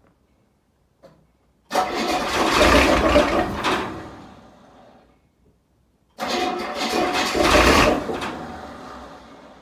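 Volvo TD40 turbo diesel in a 1966 Dodge D300 tried twice on a cold start with glow plugs that need replacing. Each attempt starts abruptly, runs loud for about two seconds, then fades out within a few seconds without the engine settling into a steady idle.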